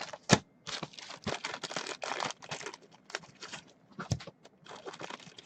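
Trading-card box and wrapper packaging being handled and opened by hand: an irregular crinkling rustle broken by sharp clicks, with two louder snaps, one just after the start and one about four seconds in.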